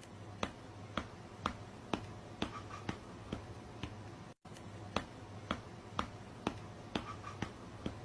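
Quiet, sharp clicks or taps at irregular spacing, roughly two a second, over a faint low hum. The same few-second stretch plays twice, with a brief dropout between.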